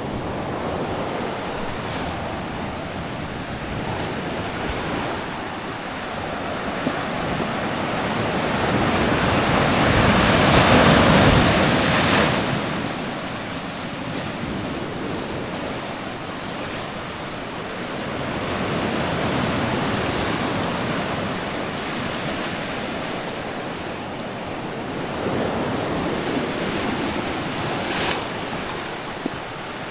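Pacific Ocean surf: waves washing in against the shore, the loudest breaking about ten seconds in, with smaller swells later.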